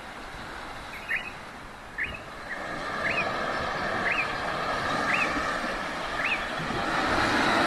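A bird repeating a short, rising chirp about once a second, six times, over a steady outdoor hiss that grows louder partway through.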